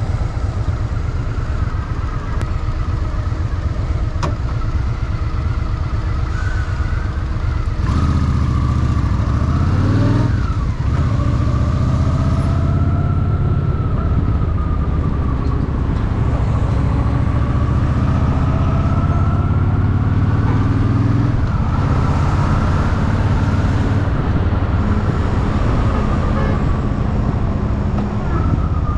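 Honda Shadow VT750's V-twin engine rumbling while riding. About eight seconds in it pulls harder and its pitch rises, then the note drops sharply a couple of seconds later at a gear change.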